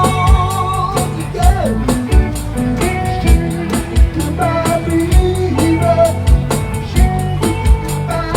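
Live band music: a song with a steady drum beat, bass and guitar under a held, wavering lead melody.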